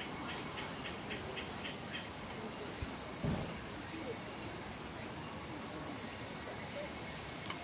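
Steady chorus of insects making a dense, high-pitched drone, with a pulsed call repeating about five times a second for the first two seconds. A soft low thump about three seconds in.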